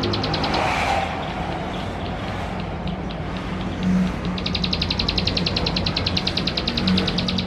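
Male plain prinia (ciblek sawah) singing its rapid, buzzy trill of evenly repeated high notes. The trill stops just under a second in and starts again about four and a half seconds in. A steady low engine-like hum runs underneath.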